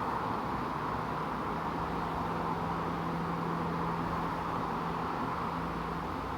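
Honey bee swarm in flight, tens of thousands of bees circling and humming as a steady drone, with one steady low note joining about a second in and fading near the end.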